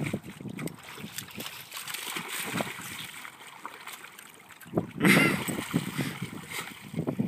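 Dog splashing in shallow pond water as she dives for rocks, with a louder burst of splashing about five seconds in.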